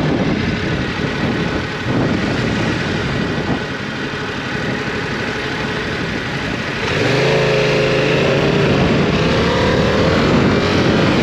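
Yamaha R7 motorcycle's parallel-twin engine under way, with heavy wind rushing over the microphone. About seven seconds in, the engine note comes up louder and rises a little in pitch as the bike accelerates.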